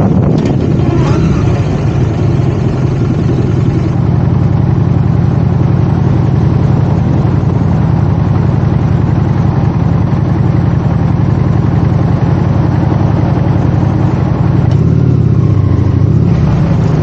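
Motorcycle engine running steadily at low revs, with a few even tones; near the end its pitch wavers as the revs change.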